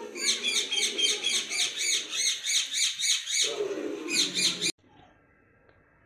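A bird chirping rapidly and repeatedly, about four calls a second, over a low background murmur; it cuts off abruptly near the end.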